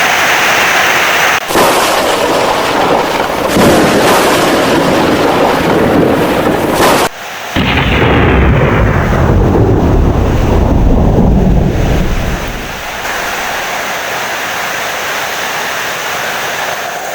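Heavy rain with loud thunder, broken by sudden cuts about a second and a half in and about seven seconds in. After the second cut a deep thunder roll dies away around twelve seconds in, leaving steadier rain.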